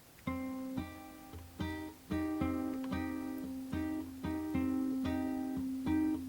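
Background music: acoustic guitar picking notes in a slow, even pattern over a held low note, starting after a brief gap at the very beginning.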